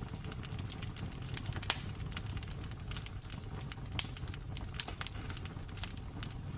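Wood fire crackling in a fireplace: irregular small crackles with two louder pops, about a second and a half and four seconds in, over a low steady rumble.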